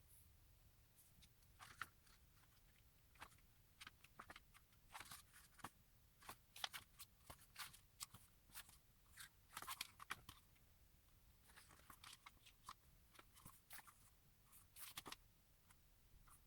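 Faint, irregular crinkling and small clicks from merchandise packaging being handled.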